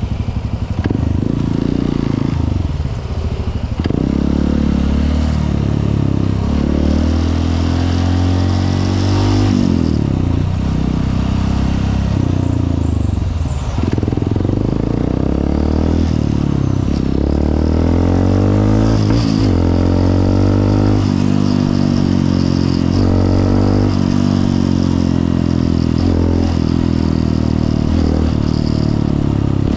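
Honda CRF150L's single-cylinder four-stroke engine under way on the road. The engine pitch climbs and drops over and over as the rider accelerates, eases off and accelerates again.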